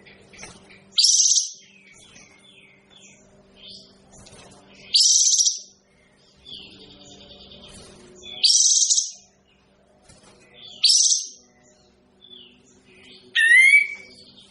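Kapas tembak songbird giving five loud, short bursts of high-pitched song about three seconds apart, the last with quick sweeping glides, with fainter chirps between them. A steady low hum runs underneath.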